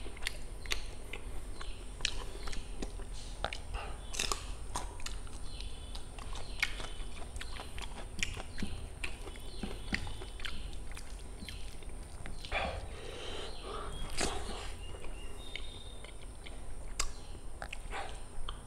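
Close-up mukbang eating sounds: wet chewing, lip smacks and mouth clicks at an irregular pace as chicken curry and rice are eaten by hand, with fingers squishing through rice and gravy on the plate.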